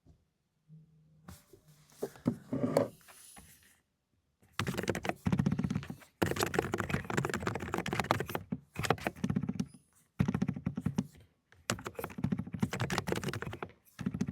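Fast typing on a mechanical keyboard with low-noise 'cotton candy' switches: muted, rapid keystrokes in runs of a second or two with short breaks between them. The first few seconds hold only a few scattered knocks and a rustle before the steady typing starts.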